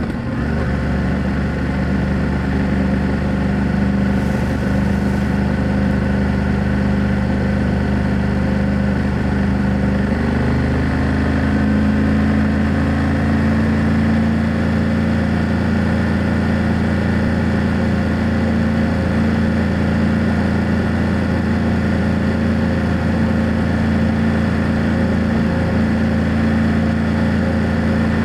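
BMW F800GS motorcycle's parallel-twin engine and exhaust running steadily under way. About ten seconds in, the engine speed rises a little and then holds at the higher note.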